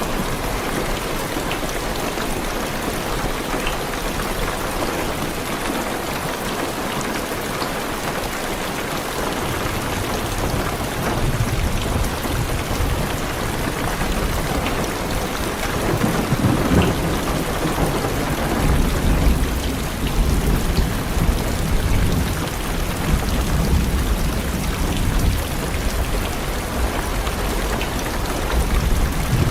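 Heavy rain drumming steadily on a car's roof and windows, heard from inside the cabin. Low rolling thunder comes in about a third of the way through and grows stronger in the second half.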